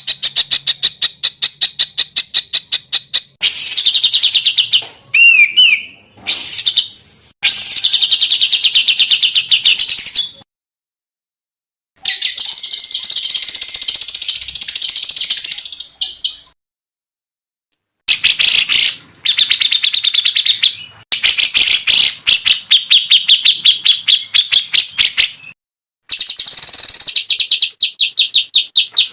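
Songbird masteran recording: high, rapid-fire trills of sharp repeated notes, in bursts of a few seconds each. There is a longer buzzy phrase a little past the middle, and two brief clean silences between bursts.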